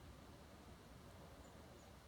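Near silence with faint outdoor hiss, and two very faint, short, high-pitched chirps from small birds in the second half.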